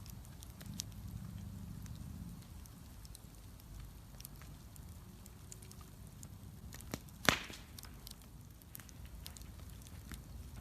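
Wood bonfire burning with a low steady rumble and scattered sharp crackles, and one loud pop about seven seconds in.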